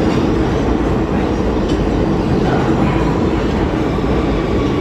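New York City subway train running on the rails: a steady, loud rumble of wheels and motors that neither rises nor falls.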